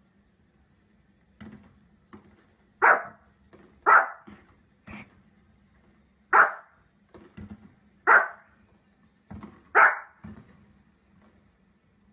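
A dog barking: five loud, single barks an uneven second or two apart, with fainter short sounds in between.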